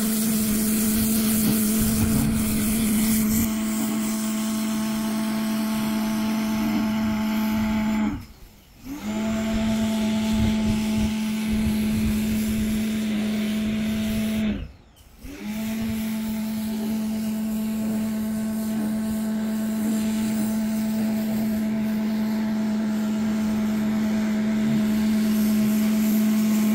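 Pressure washer running with a steady hum and spray hiss, cutting out briefly twice, about eight and fifteen seconds in, then starting up again each time.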